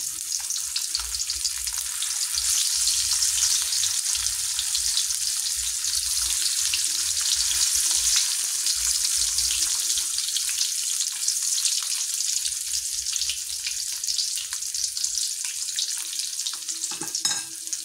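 Slabs of tofu frying in hot oil in a wok: a steady sizzle with crackling.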